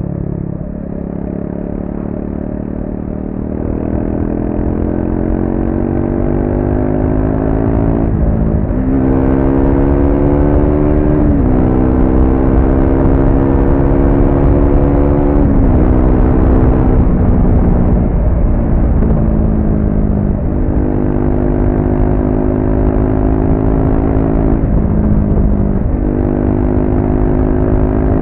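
Triumph Speed 400's single-cylinder engine through its stock exhaust, pulling through the gears: the engine note climbs, then drops sharply at each of several gear changes, with a stretch where it falls off as the bike slows.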